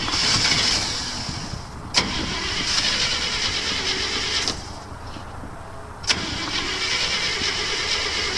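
1968 International 1100B's 345 V8 being cranked on the starter in repeated tries, each new try opening with a sharp click, without catching: the engine is flooded.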